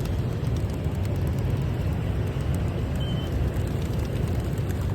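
Steady low rumble of wind buffeting the microphone, with a brief faint high chirp about three seconds in.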